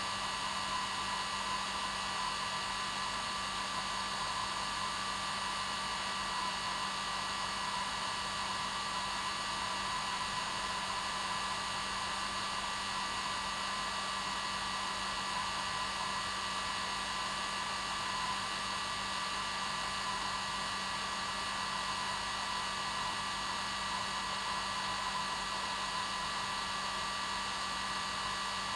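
Hair dryer running steadily on its normal setting: an even rushing air noise with a constant motor whine and low hum.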